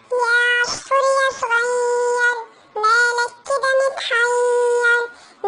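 A high, pitch-shifted singing voice, the Talking Tom app's cartoon-cat replay of a children's song. It sings held notes in short phrases, with brief breaks between them.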